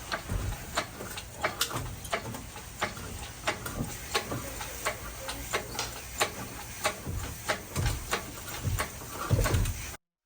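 Irregular light metallic clicks and knocks, two or three a second, with a few low thuds, from tools and metal parts being worked. The sound cuts off abruptly just before the end.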